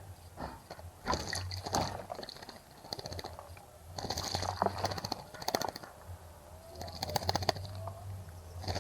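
Small wild birds bathing in a bird bath: bursts of splashing and wing-fluttering in the water, each lasting about a second, come several times over a steady low hum.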